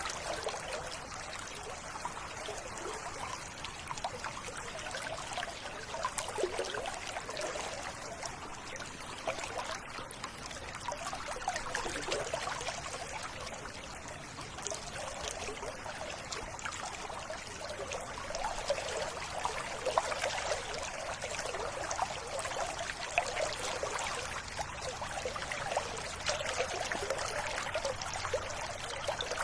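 River water trickling and babbling steadily.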